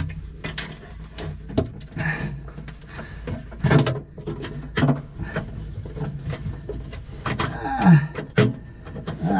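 Irregular clicks, knocks and light rattles of metal parts and tools being handled and fumbled in a tight space during a fuel shutoff valve install.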